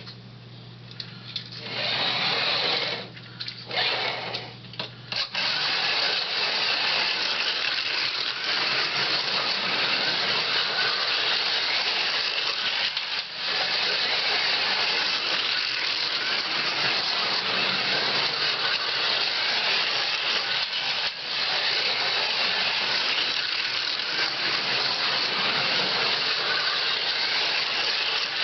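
Carrera Go 1/43 slot cars' small electric motors whirring as they race around the track. After a few short bursts and stops, they run without a break from about five seconds in.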